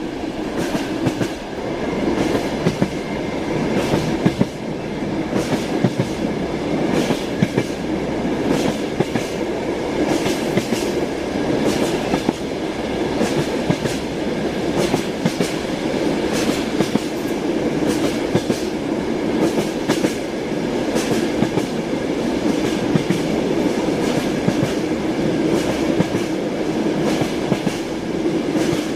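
Train wheels rolling on rails at a steady speed: a continuous rumble with frequent sharp knocks as the wheels pass over rail joints.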